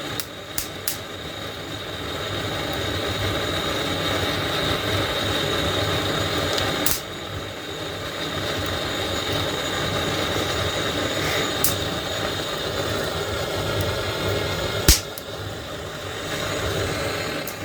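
Wood fire catching in a fireplace: a steady rushing draft with a few sharp crackles and pops, the loudest near the end, from logs that froze outside in the frost.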